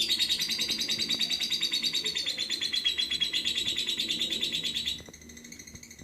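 Lovebird singing a long, rapid trill that drifts slightly lower in pitch and breaks off about five seconds in, leaving a quieter chatter.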